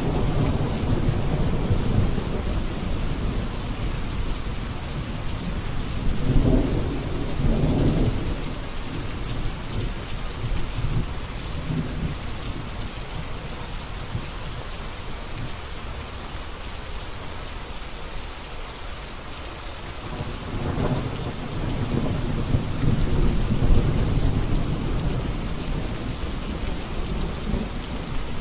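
Steady rain falling with rolling thunder: low rumbles swell up about a third of the way in, die down, and build again for a long roll in the last third.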